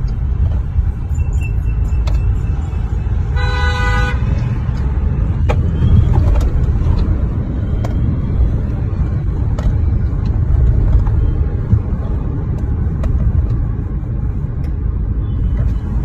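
Steady low road and engine rumble of a car in traffic, with a single car horn honk of under a second about three seconds in.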